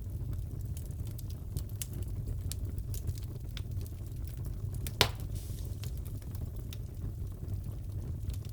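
Wood fire crackling in a fireplace: a steady low rumble with scattered small snaps and one loud pop about five seconds in.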